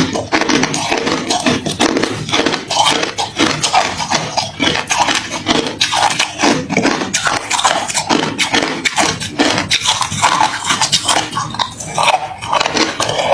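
A person chewing hard, refrozen crushed ice close to the microphone: continuous loud crunching and cracking, many sharp crunches packed closely together.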